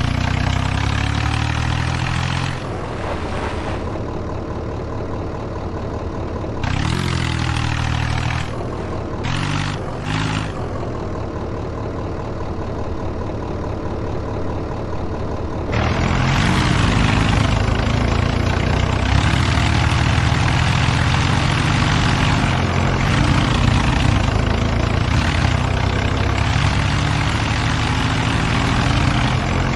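Diesel tractor engines running hard under load, with brief swells about seven and ten seconds in and then louder, sustained running from about halfway through.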